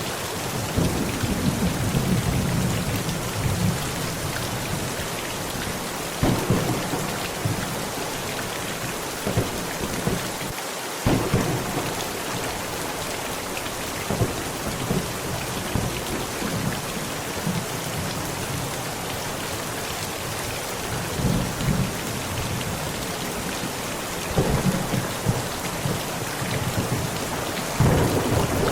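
Heavy rain pattering steadily on a tent, with rolls of thunder rumbling low again and again, the strongest about a second in and near the end.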